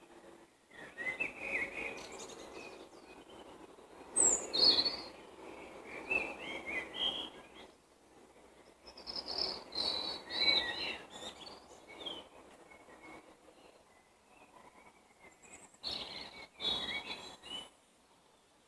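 Songbirds singing in spring, in bursts of quick, high chirping phrases of a few seconds each, with short lulls between.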